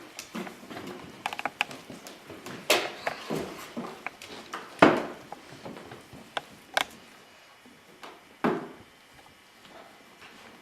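A dog clawing and biting at a cardboard shoe box to get treats out: irregular scrapes, rustles and knocks of cardboard, the loudest strokes about three, five and eight and a half seconds in.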